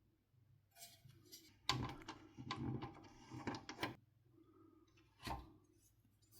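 Handling noise of console parts being worked on: a quick run of clicks and knocks lasting about two seconds, then a single thump about five seconds in.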